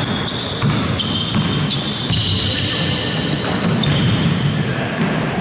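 Basketball being played on an indoor court: the ball bouncing and sneakers making short high squeaks on the floor, over the low rumble of the hall.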